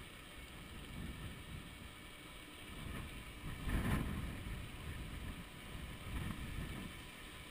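Wind buffeting the microphone of a chest-mounted camera on a moving electric bicycle: a gusty low rumble, with a stronger gust about four seconds in.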